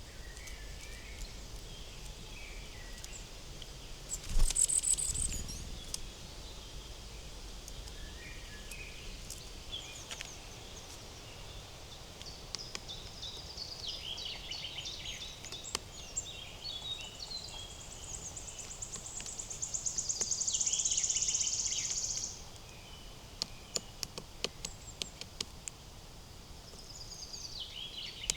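Forest ambience with several wild songbirds singing and calling in short high phrases. A sudden louder noise comes about four seconds in, a high rapid trill lasts about three seconds later on, and sharp ticks follow near the end.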